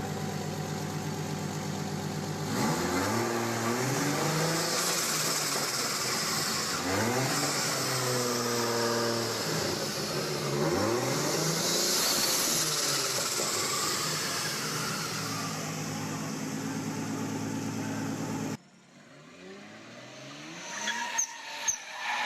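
A car engine idles steadily, then revs up and down repeatedly, its pitch rising and falling several times. It cuts off abruptly near the end, leaving a quieter stretch with a few sharp clicks.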